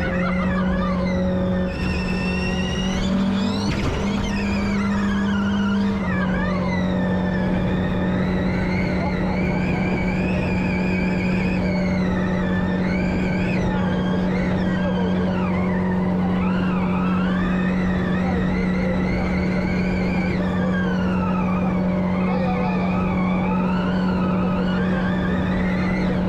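Audi RS Q e-tron Dakar rally car on the move: its electric drive motors whine, the pitch rising and falling as the car accelerates and slows, over a steady low drone from the range-extender petrol engine running to charge the battery. Tyre and road noise runs underneath.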